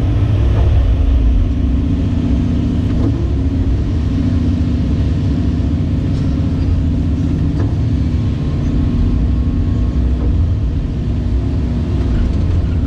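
Caterpillar 349E excavator's diesel engine running steadily, a loud, low, even drone.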